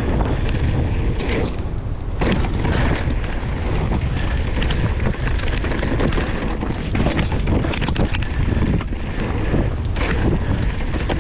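Mountain bike running fast down a rough downhill trail: a constant rumble of wind on the bike-mounted camera's microphone, with frequent knocks and rattles as the bike rolls over roots and bumps.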